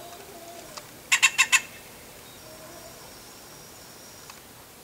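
Great-tailed grackle giving a quick run of about five harsh, clacking calls, a little after a second in.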